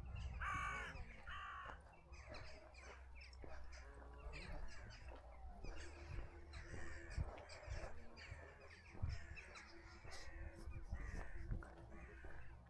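Birds calling: two loud, harsh caw-like calls about half a second and a second and a half in, then a busy mix of quieter bird calls.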